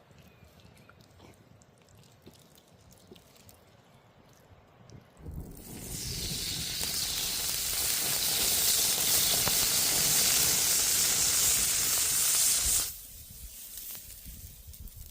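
Loud sizzling hiss of food frying in hot oil. It starts about five seconds in, builds, holds steady, and stops abruptly about thirteen seconds in.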